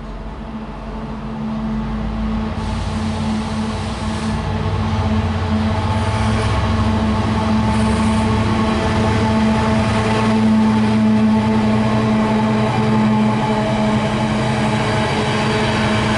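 Freightliner Class 70 diesel locomotive with its GE PowerHaul V16 engine approaching and passing with a steady engine drone, growing louder over the first five seconds, followed by the wheels of its container wagons running over the rails.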